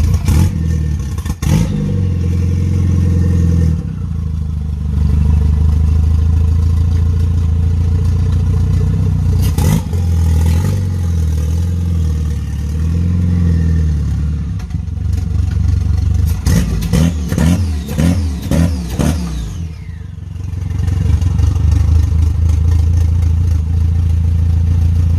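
Renault F4R 2.0-litre turbocharged four-cylinder engine running steadily in a Renault Twingo on a drive, with a strong low drone. A run of rapid clattering pulses comes about 17 to 19 seconds in.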